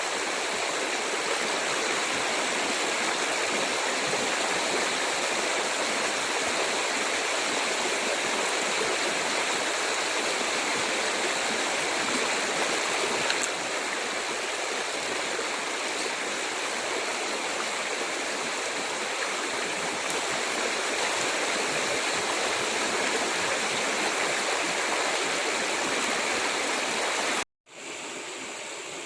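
Steady rush of flowing water from a stream. It cuts out for a moment near the end and comes back quieter.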